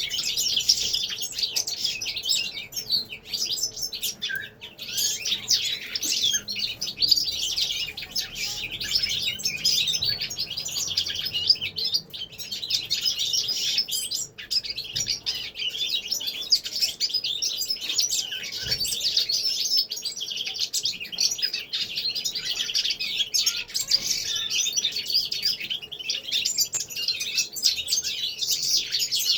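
Many small caged finches singing and twittering together, a dense, unbroken chorus of high chirps and trills.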